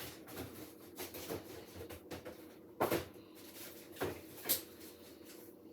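A few sharp knocks and clatters, the loudest about three seconds in and again near the end, of things being handled and set down in a kitchen, over a steady hum.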